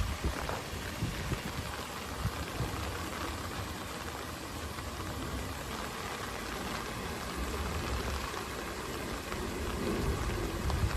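Rain falling steadily, with low rumbling at the start and again near the end.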